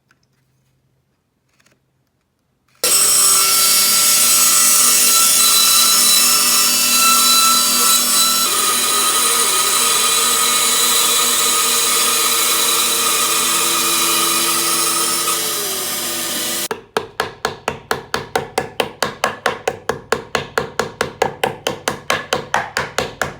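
A power tool cutting wood: loud and steady, starting about three seconds in and stopping abruptly after about fourteen seconds. Then rapid rhythmic strokes on wood, about six a second.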